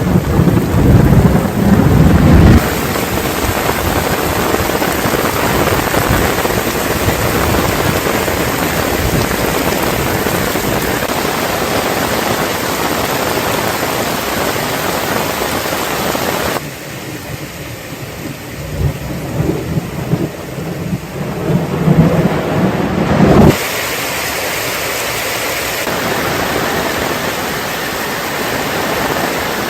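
Heavy rain falling, a steady hiss of drops, with low rumbling swells in the first two or three seconds and again about two-thirds of the way through. The sound changes abruptly a few times, as between separately recorded clips.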